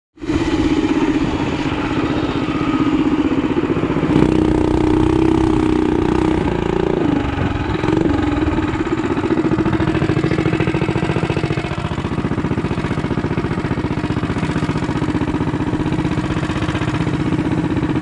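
Mini bike engine running steadily, its pitch rising and dipping a few times with the throttle in the first part, then holding steady.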